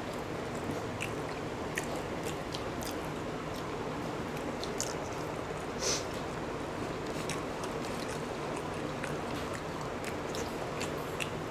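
People chewing boiled eggs: scattered small mouth clicks and smacks, one louder about six seconds in, over a steady background hiss.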